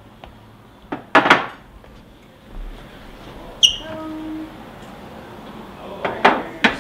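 Dishes and trays being handled and set down on a counter: a few sharp knocks about a second in, a single ringing clink a little past the middle, and more knocks near the end.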